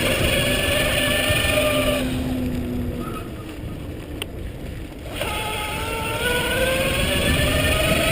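Electric bike motor whining under load, its pitch sinking slightly, then cutting out for about three seconds and coming back in with a steadily rising pitch as it speeds up. Wind rumbles on the microphone throughout.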